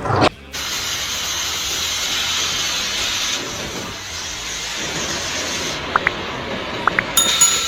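Steady hiss, with a few short high chirps late on.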